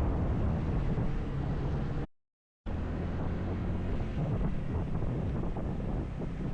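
Wind buffeting the microphone over a motorcycle engine running at speed. The sound cuts out completely for about half a second a little after two seconds in, then picks up again.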